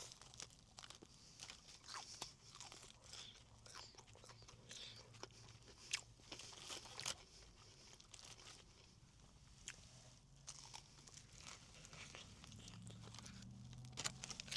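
Faint, irregular crunching and chewing of crispy Korean fried chicken being eaten, with the breading crackling at each bite.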